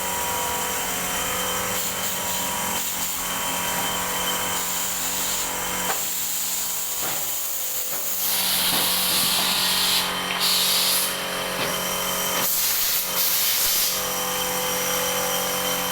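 Printing machinery running with a steady mechanical din and hum. About halfway through, a louder hiss comes in, breaks off twice and stops after several seconds.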